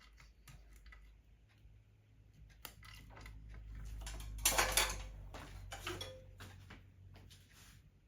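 Small metal hardware being handled: scattered light metallic clicks and clinks, with a denser cluster of louder clinks about halfway through, over a low handling rumble.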